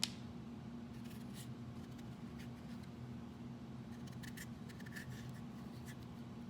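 A knife scraping and cutting vegetables in scattered short strokes, after a sharp click at the start, over a steady low kitchen hum.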